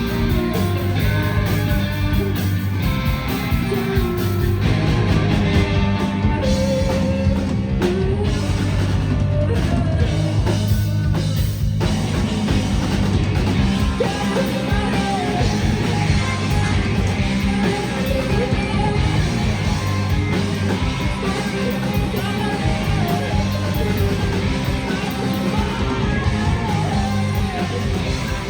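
Live rock band playing, heard from the audience: electric guitars, bass and drum kit at full volume, with singing.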